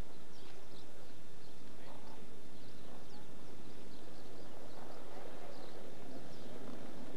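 Small birds chirping, with many short, high chirps scattered throughout, over a background of people's voices.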